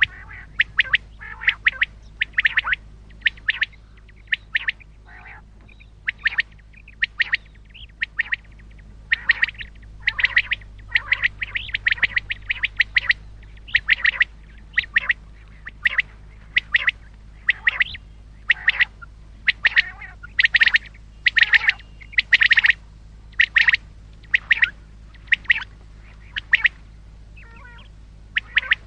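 Common quail calling over and over: short, sharp notes given in quick clusters of a few at a time, with a faint steady hum underneath.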